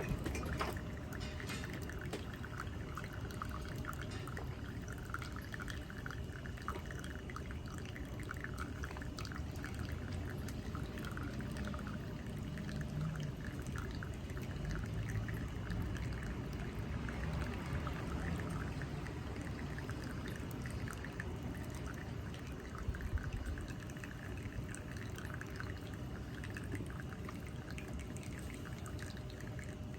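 Hot water poured slowly and steadily from a kettle, trickling and dripping, as when brewing drip coffee.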